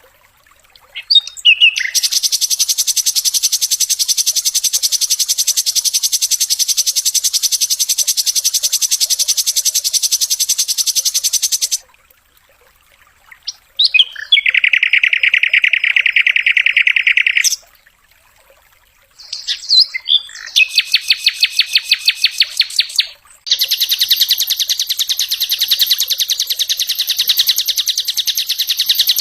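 Sikatan londo flycatcher singing in the rapid 'full dor' style: four long, very fast, buzzy rattling trills lasting several seconds each, separated by short pauses.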